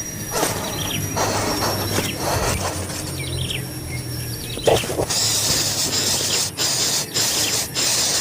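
Baby birds in the nest giving short, falling chirps. About five seconds in, a loud, steady high-pitched hiss takes over, cutting out briefly several times.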